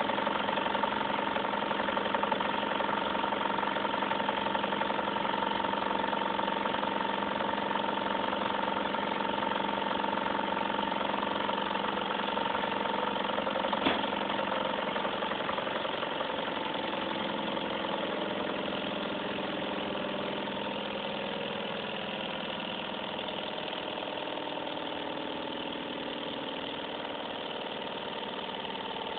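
Small model Stirling engine running with a steady mechanical hum. There is a single sharp click about halfway through, and in the second half the hum slowly sinks in pitch and grows a little quieter.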